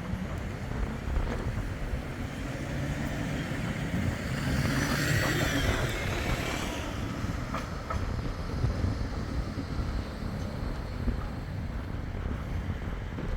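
Bombardier Flexity 2 tram running on the tramway, a steady low rumble with a louder rushing swell about four to seven seconds in as it goes by.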